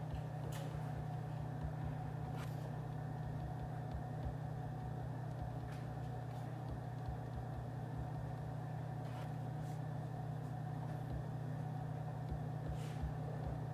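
Steady low room hum of office-style ambience with a few faint, irregular clicks scattered through.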